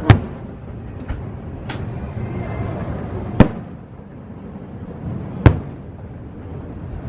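Fireworks shells bursting in the air: three loud booms about two to three seconds apart, with two fainter bangs between the first two, over a steady background rumble.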